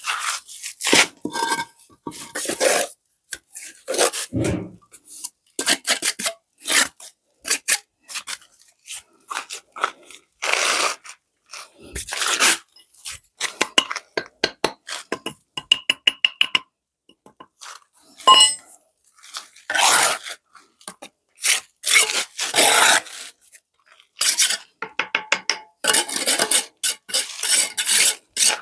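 Hard objects being handled: a steady run of irregular knocks, scrapes and clinks, a few of them ringing briefly.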